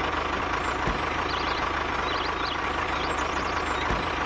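A steady running sound of a small vehicle's motor, an even drone with a faint constant whine, and two soft low thumps, about a second in and near the end.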